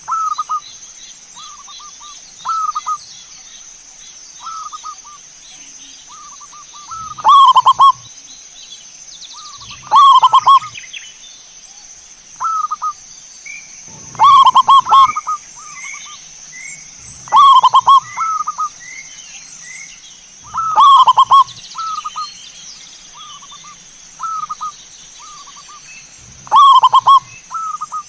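Zebra doves (perkutut) cooing: loud staccato phrases come every three to four seconds, with softer phrases between them. Midway, a run of short high chirps sounds over them, and a steady high hiss continues underneath.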